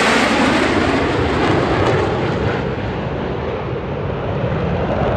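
Jet noise from a Blue Angels F/A-18 Super Hornet pass, loud at first and fading steadily as the jet flies away, its high hiss dying out over the first few seconds.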